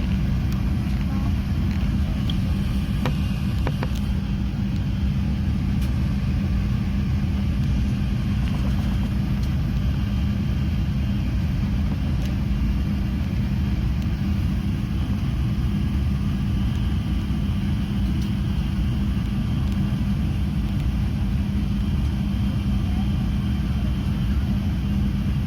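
Steady low rumble of an Airbus A380 airliner, with a constant hum under it and a few faint clicks; the level holds even throughout, with no rise in power.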